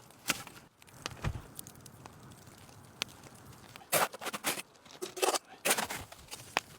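Dry brush or branches being handled: scattered clicks and a dull thud a little over a second in, then three louder bursts of crackling and tearing about four, five and six seconds in.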